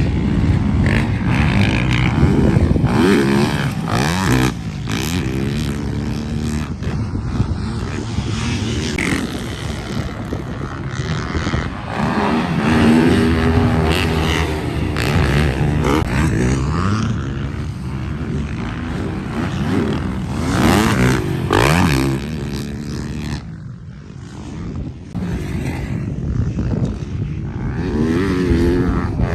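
Yamaha YZ250F four-stroke dirt bike engine being ridden hard, its pitch repeatedly rising and falling with throttle and gear changes. It drops off briefly a little before the end.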